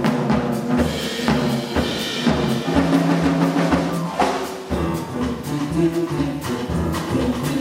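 Live jazz band music: a drum kit keeps a steady beat over bass and sustained chords.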